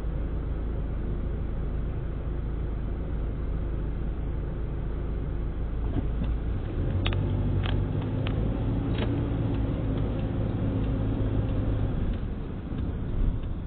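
Car engine heard from inside the cabin, idling with a steady low rumble while stopped, then working harder as the car pulls away about six seconds in. A few sharp clicks come shortly after it starts moving.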